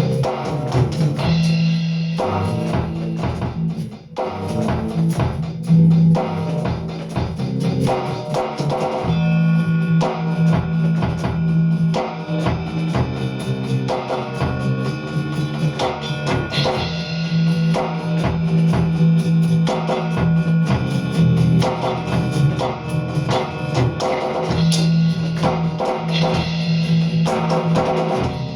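Squier Precision Bass playing a bass line in G over an Aroma TDX15 electronic drum kit keeping a steady beat.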